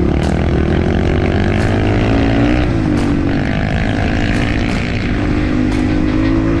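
Honda CRF 250F's single-cylinder four-stroke engine running steadily under the rider while trail riding, its pitch dipping and rising slightly as the throttle is eased and opened. A few faint clicks are heard over it.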